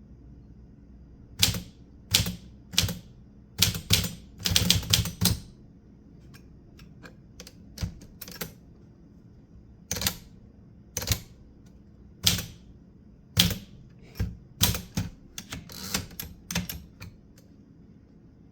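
Typewriter keys striking the paper one at a time in an uneven rhythm as a person types, with a quick flurry of strokes about five seconds in.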